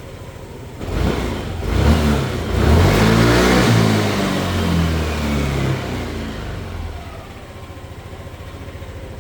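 Yamaha Cygnus Gryphus 125 cc single-cylinder four-stroke scooter engine, idling and then free-revved: two short blips about a second apart, then a longer rev held for about three seconds before it falls back to a steady idle.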